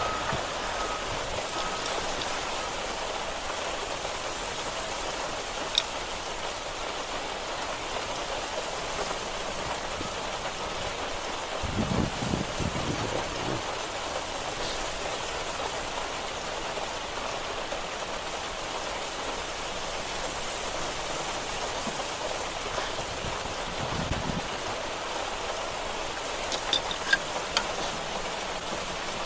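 Steady rain falling on surfaces, an even hiss throughout, with a few brief sharp clicks and a couple of dull thumps.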